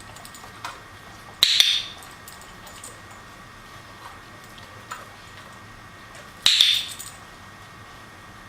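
A dog-training clicker clicking twice, about five seconds apart, marking the dog's nose touches on a target, with a few faint ticks in between.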